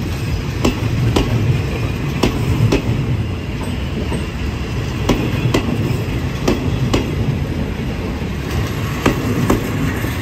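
Railway cars rolling slowly past, the wheels clacking over a rail joint in pairs about half a second apart, a pair every one to two and a half seconds, over a steady low rumble.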